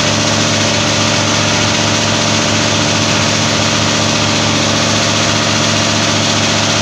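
Window air conditioner running with its compressor on: a loud, steady electrical hum centred near 100 Hz over an even rush of air noise.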